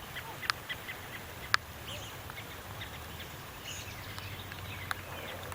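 Songbirds giving short, scattered alarm calls and chirps, agitated at cats hunting nearby. Three sharp clicks stand out, about half a second and a second and a half in and again near the end.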